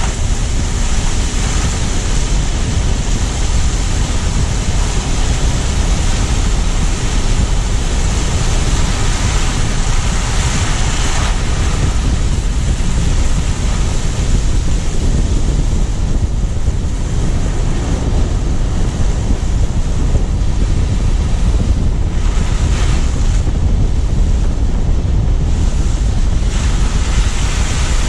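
A car driving on snowy city streets, picked up by a low-mounted action camera: a steady rush of wind buffeting the microphone over tyre and road noise, with a heavy low rumble throughout.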